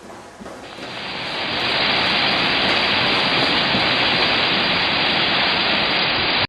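Loud, steady rush of flowing water, swelling over the first second or two, then cutting off suddenly.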